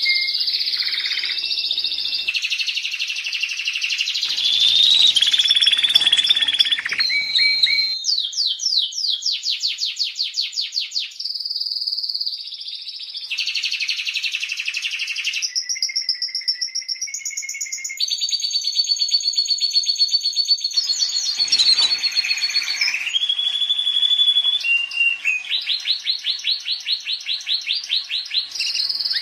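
Domestic canary singing a long, continuous song of fast trills and held whistled notes, switching to a new phrase every second or two.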